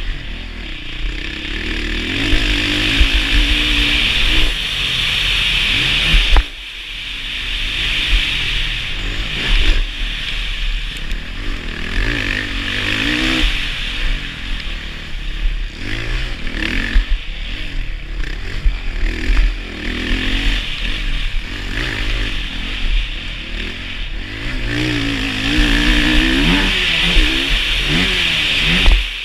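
Dirt bike engine revving up and down again and again as it is ridden around a track, with a loud hiss of wind or road noise. The sound breaks off abruptly about six seconds in and resumes.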